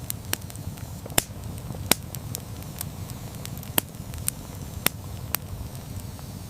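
Wood fire crackling and popping, irregular sharp snaps over a low steady rumble of the flames.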